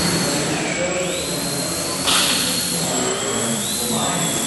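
Small electric motor and propeller of an indoor model airplane whining in flight. Its pitch dips about a second in as the throttle is eased, then rises again, with a short sharp burst of noise about two seconds in.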